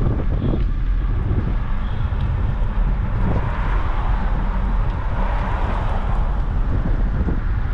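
Wind buffeting the microphone of a moving bicycle with a steady low rumble, while traffic noise swells and fades in the middle as a vehicle passes.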